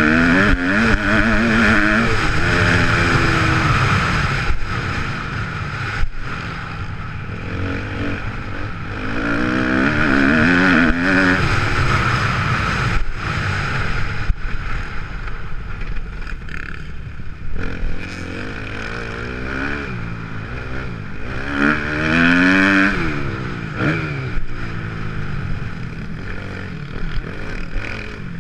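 2014 Kawasaki KX250F motocross bike's four-stroke single-cylinder engine, revved hard again and again: the pitch climbs, drops back and climbs again as the throttle is opened and shut, with the strongest runs a couple of seconds in, near ten seconds and past twenty seconds.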